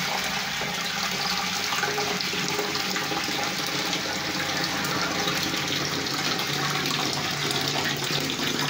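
Toilet just flushed, with water rushing steadily through the tank and bowl as the tank empties and refills.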